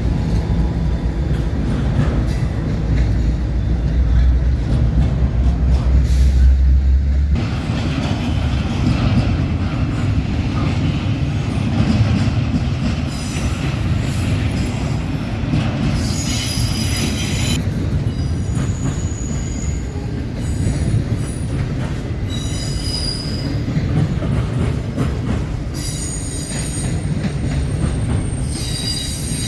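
Freight train rolling past. A deep steady rumble for the first seven seconds gives way to the noise of cars going by, with high-pitched wheel squeal rising and fading several times.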